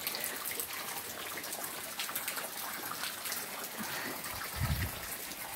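Rainwater running off a roof and out of pipes, splashing and trickling steadily with many small drips, and a soft low thump about five seconds in.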